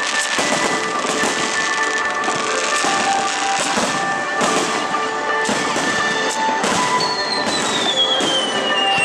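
Star mine fireworks barrage: rapid bursts and crackling one after another over steady background music, with a long falling whistle near the end.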